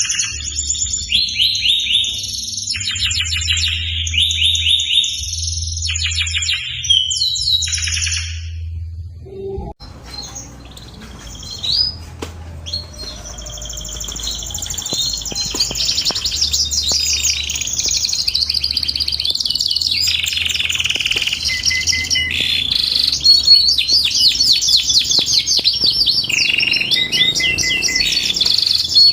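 Domestic canary singing in long, fast rolling trills and chirp phrases. The song breaks off about ten seconds in, then starts again and carries on steadily.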